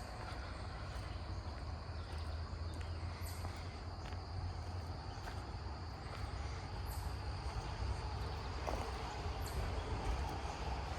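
Outdoor woodland ambience: a steady high chirring of insects over a continuous low rumble, with a few short high rustles.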